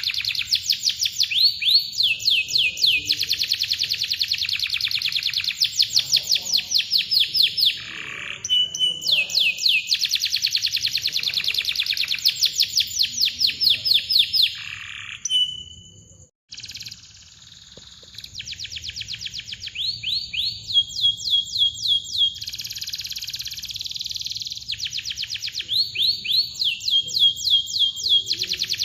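Domestic canary singing in long, tight rolls: fast trains of sweeping notes with short chirps between them. The song breaks off briefly about halfway through, then resumes.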